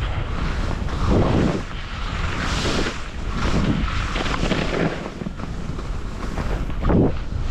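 Skis carving turns through fresh snow, each turn a swelling hiss of snow spray, with wind rumbling over the microphone throughout.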